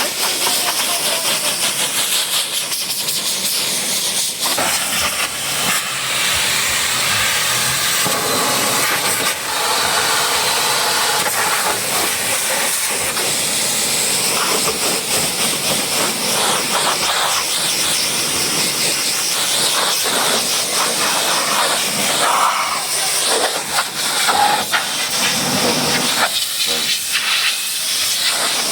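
High-pressure washer jet spraying water onto a vehicle: a loud, steady hiss whose texture shifts as the spray moves over different surfaces.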